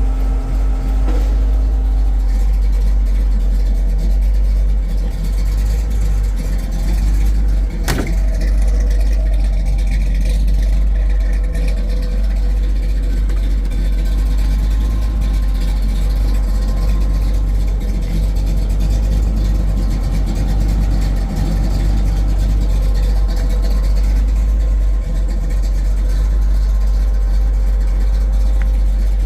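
1968 Pontiac Firebird running, a steady engine and road noise heavy in the low end, with one sharp click about eight seconds in.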